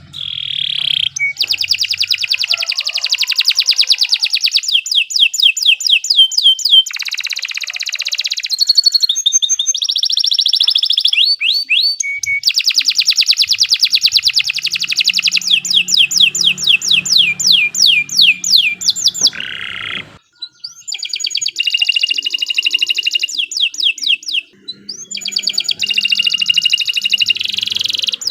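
Domestic canary singing a long, loud song of fast trills and rolls, repeated notes sweeping high and low, with short breaks partway through.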